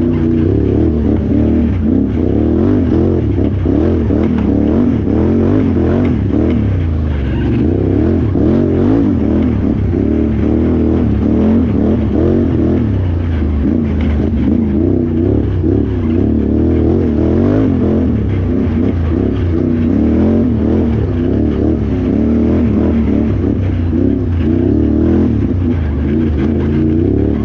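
Can-Am Renegade XXC 1000R ATV's V-twin engine running hard and revving continuously, its pitch rising and falling without a break as the throttle is worked.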